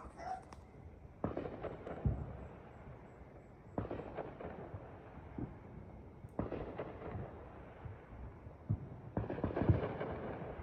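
Distant fireworks going off: about five muffled bangs a couple of seconds apart, each trailing off in a rumble.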